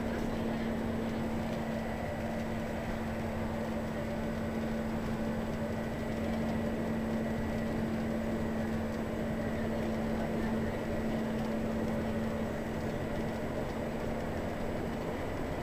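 Scania L94UB city bus's rear-mounted diesel engine running at a steady speed, a constant drone over road and cabin noise.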